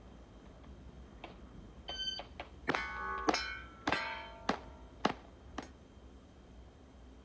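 A short electronic shot-timer beep about two seconds in. It is followed by a quick string of about eight pistol shots, each with the metallic ringing of a steel target being hit.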